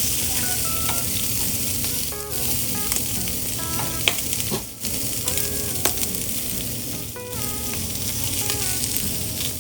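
Food frying in hot oil: a steady sizzle, with a few sharp ticks.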